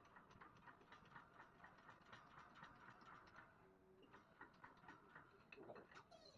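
Near silence with faint, rapid, irregular ticking and clicking.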